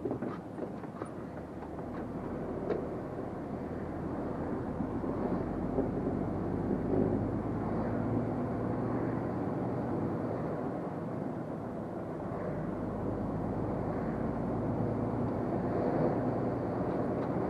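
Truck engine and road noise heard from inside the cab while driving, a steady rumble that grows louder over the first several seconds and then holds.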